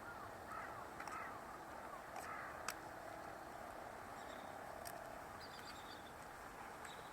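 Faint bird calls outdoors: a few short arching notes in the first couple of seconds, and higher chirps later on. There is a sharp click about two and a half seconds in.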